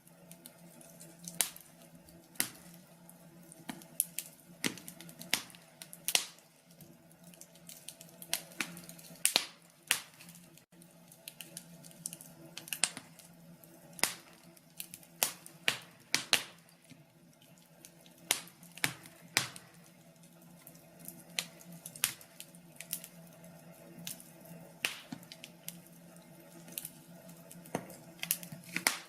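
Wood fire crackling in a fireplace: irregular sharp pops and snaps, a few each second and uneven in loudness, over a faint steady hum.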